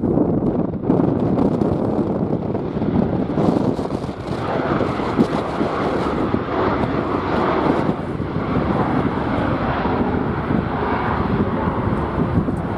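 Strong wind buffeting the microphone with a heavy, gusting rumble. Under it runs the noise of a jet airliner's engines, which grows louder and hissier from about four seconds in.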